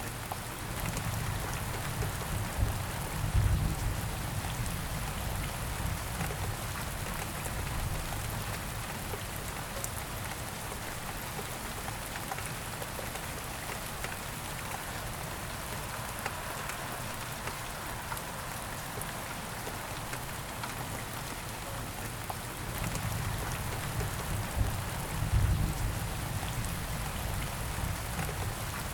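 Steady rain falling and pattering on surfaces. A low rumble swells up twice, about a second in and again near the end.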